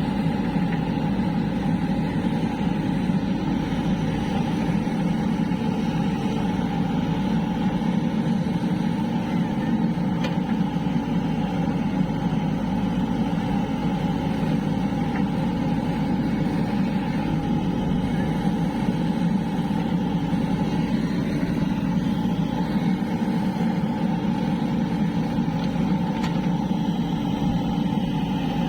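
Heavy diesel engine of earth-moving machinery running steadily at a constant speed, with no revving or change in pitch.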